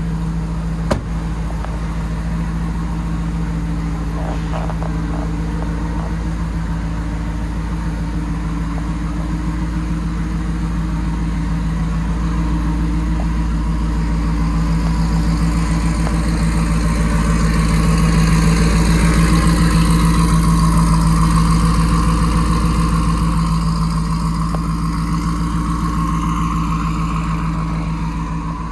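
A 2023 Ford F-150's twin-turbo V6 running steadily with a low hum. A broad hiss builds from about halfway, peaks about twenty seconds in, then eases. There is a single sharp click about a second in.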